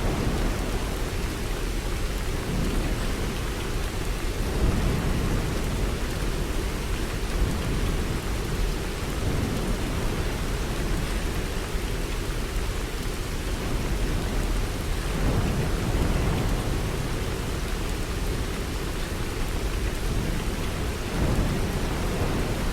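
Storm noise: steady heavy rain with a low rumble that swells up every few seconds.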